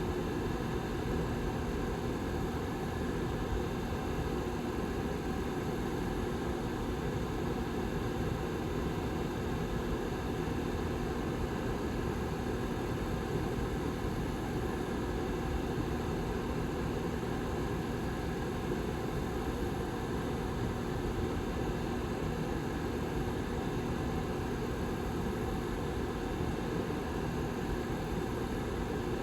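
Lasko 755320 tower heater's rear fan running steadily: an even whooshing rush with a faint low hum.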